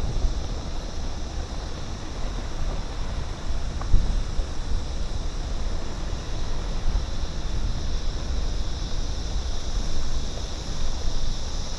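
Steady outdoor noise: wind rumbling on the microphone with a steady high-pitched hiss, and a single short knock about four seconds in.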